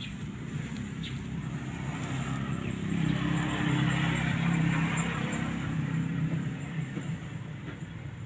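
A vehicle's engine and exhaust running steadily, growing louder about three seconds in and easing off again toward the end.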